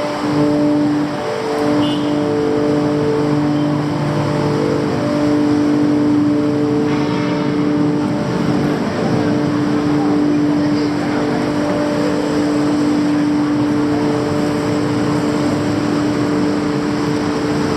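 Street traffic with a steady, continuous engine drone underneath.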